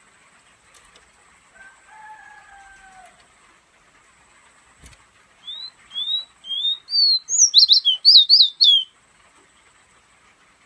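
A fire red songbird singing one phrase about halfway in: a few short rising whistled notes that come faster and faster, then break into a quick run of high, sharp notes. Earlier there is a faint, drawn-out falling call in the background.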